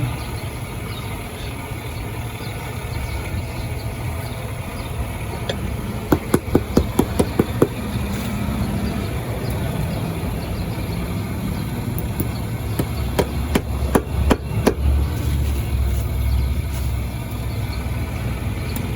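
Hammer driving nails into a shoe heel: a quick run of about eight strikes about six seconds in, then scattered further strikes, over a steady low hum.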